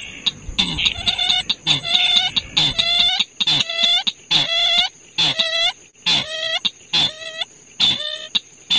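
White-breasted waterhen (chim quốc) calling, a harsh call repeated about twice a second in an even series, played as a lure for night trapping. A steady high tone runs underneath.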